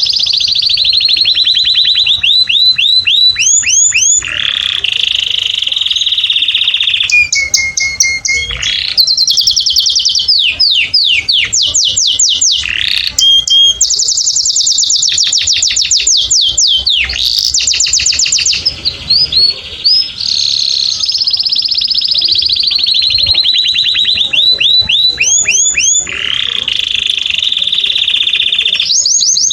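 Domestic canary singing a long, unbroken high-pitched song. It runs through fast rolls of rapidly repeated notes, sweeping up-and-down glides and held trills, changing tour every few seconds.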